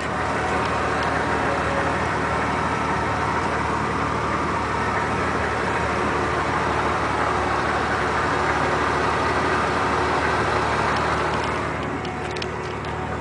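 1996 Ford F-150's 4.9-litre inline-six running through a Cherry Bomb glasspack muffler, the exhaust note holding steady and loud, then easing off near the end.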